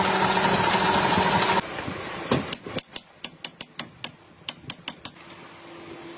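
A power machine in the axle workshop runs with a steady hum and whine, then cuts off suddenly about a second and a half in. A series of about a dozen sharp, short knocks follows over roughly three seconds, at about three a second, then a faint steady hum.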